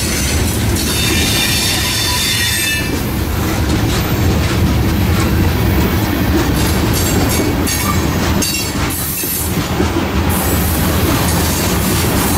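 Freight train cars, tank cars then covered hoppers, rolling past close by: a steady rumble and rattle of wheels on the rails. A high wheel squeal comes in the first few seconds.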